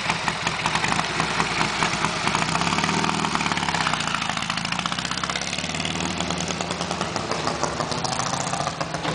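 Ural motorcycle's flat-twin engine running with a steady beat, its pitch dipping and rising again a few seconds in, then growing slightly quieter toward the end.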